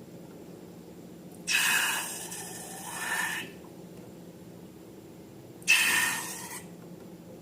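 Two sudden bursts of hissing, air-like noise. The first, about a second and a half in, lasts about two seconds and swells again near its end; the second, about a second long, comes roughly four seconds later.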